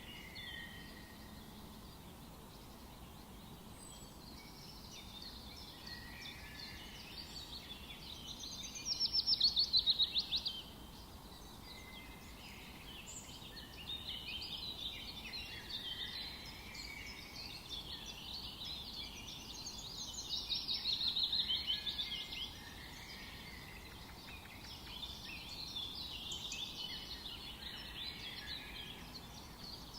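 Several forest birds singing and chirping over a faint steady hiss of ambience. Twice, about a third and two thirds of the way in, a nearer bird gives a louder song of rapid repeated notes lasting a couple of seconds.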